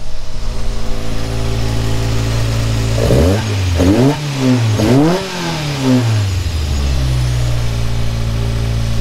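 A race car's engine idles steadily. About three seconds in it gets three quick blips of the throttle, the revs rising and falling each time, then it settles back to idle.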